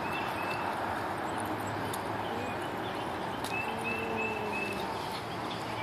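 Steady outdoor noise, with a small bird chirping in short series of high notes; one run of about four comes midway. A few faint clicks are scattered through.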